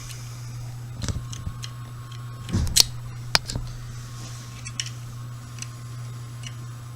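Small pistol parts clicking and tapping as they are dropped and fitted into a Smith & Wesson M&P 45 frame by hand: scattered clicks, with a louder cluster about two and a half to three and a half seconds in. Under it runs a steady hum with a thin high whine from a running washing machine.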